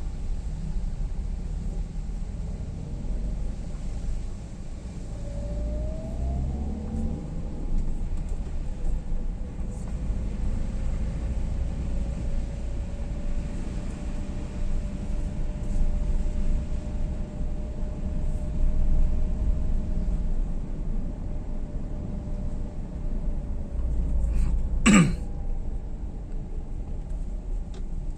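Steady low rumble of a moving vehicle. A faint steady tone runs through the middle, and a single short, sharp, loud sound comes near the end.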